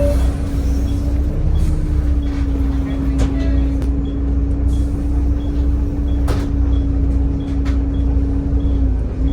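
Volvo B7TL double-decker bus's six-cylinder diesel and ZF gearbox running at a steady speed: a heavy low rumble under a steady whine, which dips briefly near the end. Light regular ticking about twice a second and a few short clicks sit above it.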